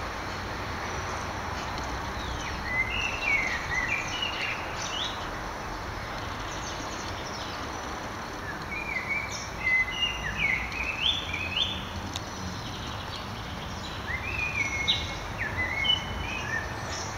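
A bird singing three short phrases of quick, high chirping notes a few seconds apart, over a steady background hiss.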